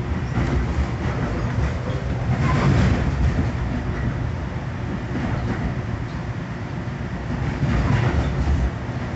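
Commuter train running on the rails: a steady rumble with wheel-and-rail clatter, swelling louder about three seconds and again about eight seconds in.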